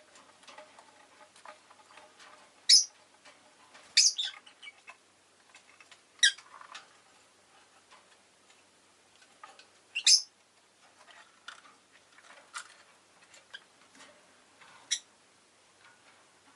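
Rosy-faced lovebird giving short, sharp, high-pitched chirps, about five loud ones a few seconds apart, with soft scattered clicking between them.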